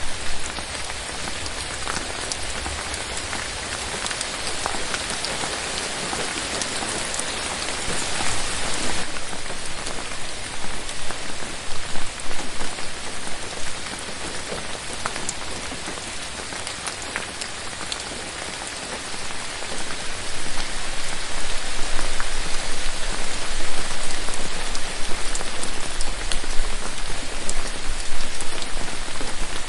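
Steady rain falling on forest foliage: a continuous hiss with many small drop ticks, growing heavier about two-thirds of the way through.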